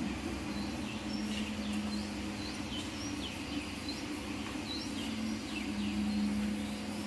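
Birds chirping, short high falling calls repeated every half second or so, over a steady low hum.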